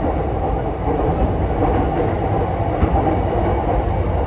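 Running sound of a JR East E233-5000 series electric train heard from inside a passenger car: a steady low rumble of wheels on rail and running gear, with a few faint knocks.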